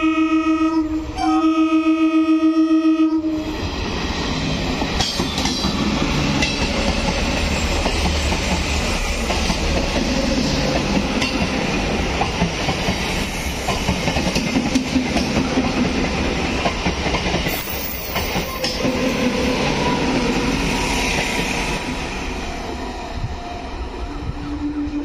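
Indian Railways electric multiple unit (EMU) commuter train sounding its horn, the second blast held about two seconds. It then runs past close by, wheels clattering over the rail joints over a steady rumble. Right at the end another horn blast begins.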